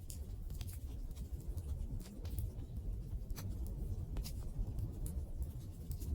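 Wood fire burning: a low steady rumble of the flames with irregular sharp crackles and pops from the burning wood, about one or two a second.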